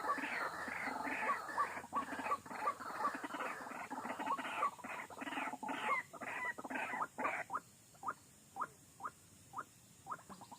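White-breasted waterhen calling: rapid, dense repeated notes for about seven seconds, thinning to single short notes spaced about half a second apart.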